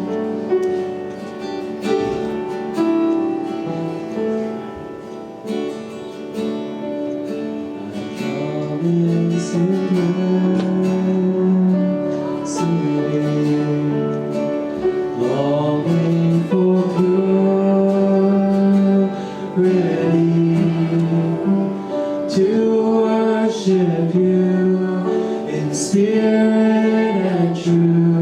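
Worship music: a guitar playing, with singing coming in about halfway through.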